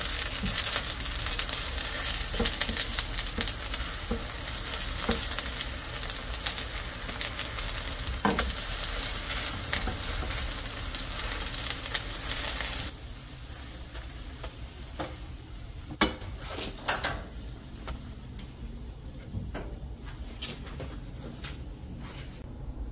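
Pancake batter sizzling and crackling as it fries in oil in a pan. The sizzle cuts off abruptly about halfway through, leaving a few light clicks and taps.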